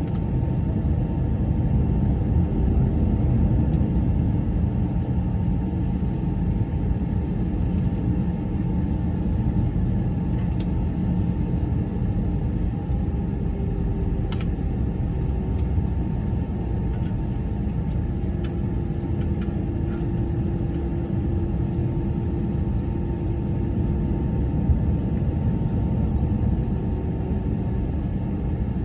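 Airbus A321 cabin noise: the steady rumble of the engines and airflow, with a faint steady tone above it.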